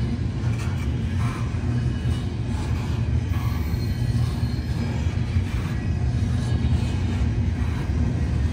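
CN manifest freight train rolling past with a steady low rumble of wheels on rail, with faint short squeals now and then.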